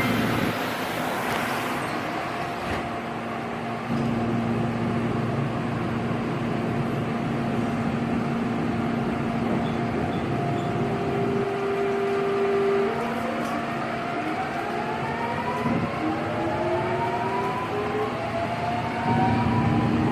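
Busan Metro Line 2 train's GEC-Alsthom GTO VVVF traction inverter and motors, heard from inside the car. Steady running noise with a held tone gives way, about 13 seconds in, to a rising whine in several pitches at once as the train gathers speed.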